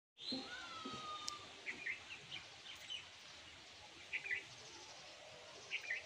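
Birds calling over a faint steady outdoor background: a longer whistled note near the start, then short chirps repeated several times.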